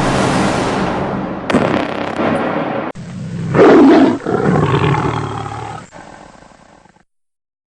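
Tiger roaring, the loudest roar about three and a half seconds in, then fading away; before it, a stretch of loud, noisy sound.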